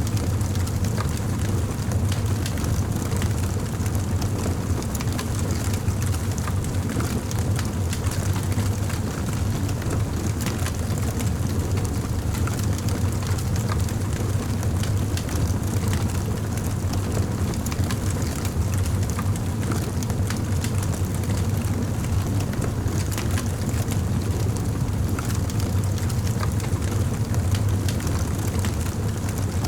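Campfire crackling: many small sharp pops over a steady low rumble.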